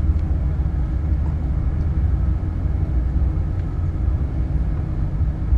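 A steady low rumble with a faint hum, like a running motor vehicle heard from close by. It starts abruptly at a cut.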